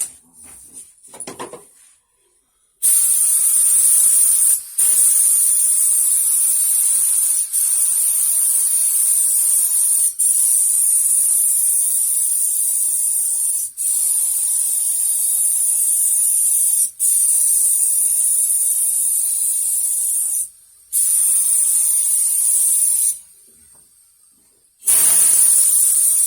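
Paint spraying onto a car body: a loud, steady hiss in long passes, starting about three seconds in and briefly cut off every few seconds between strokes, with two longer pauses near the end.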